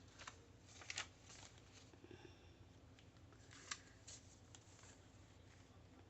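Paper and card being handled: a few soft rustles and light taps, the sharpest about a second in and again near the middle.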